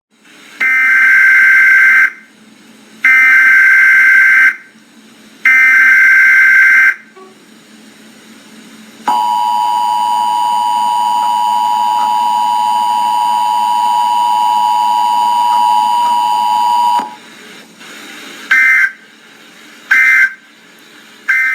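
Emergency Alert System signal: three data-burst screeches of about a second and a half each, then the steady two-tone attention signal held for about eight seconds, then three short data bursts near the end that mark the end of the message.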